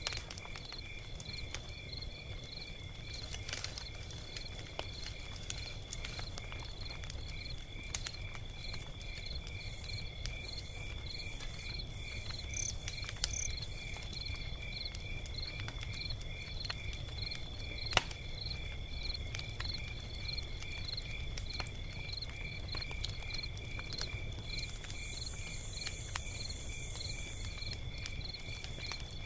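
Log fire crackling with scattered sharp pops over a low rumble, with crickets chirping steadily and evenly throughout. A brief higher insect buzz joins near the end.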